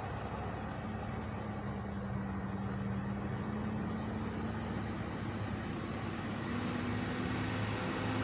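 Parked truck engines idling: a steady, low engine hum whose pitch creeps slightly upward, growing a little louder near the end.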